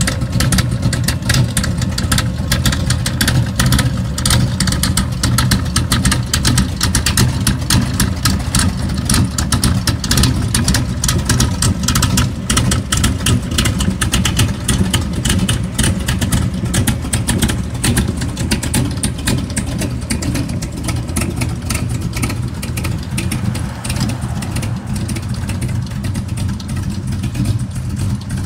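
1973 Corvette's 454 big-block V8 idling loudly and steadily through chrome side-exit exhaust pipes.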